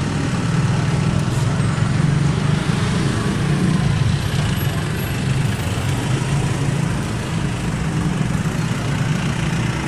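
Honda CBR650F's inline-four engine running steadily through an aftermarket exhaust, with an even, unchanging note.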